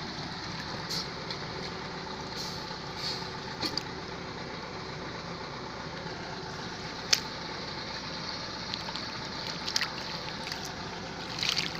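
Steady running noise of a vehicle on the road, with a sharp click about seven seconds in and short hissy bursts here and there, more of them near the end.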